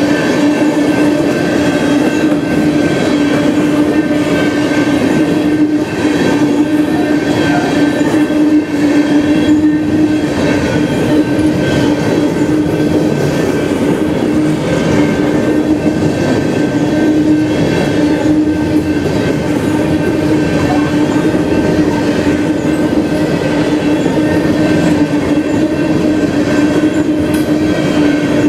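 Coal train's open-top hopper cars rolling steadily past at a grade crossing, wheels clacking over the rails. A steady ringing tone sits over the rolling noise.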